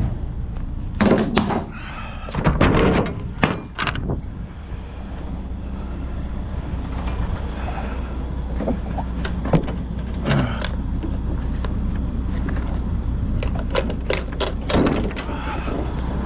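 Semi-trailer's rear doors being opened by hand: metal clanks and thuds in three bunches, the first and loudest right at the start, over the steady low hum of the idling truck.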